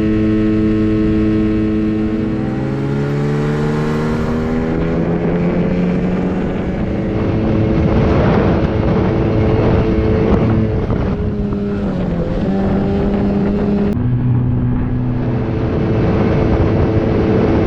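Two small outboard motors running at speed together, their engine tones overlapping over a hiss of wind and water. One motor's pitch climbs about two seconds in, and the sound changes abruptly about fourteen seconds in.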